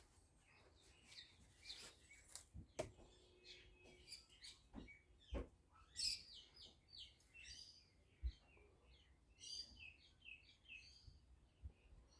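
Faint birds chirping, with a few soft knocks.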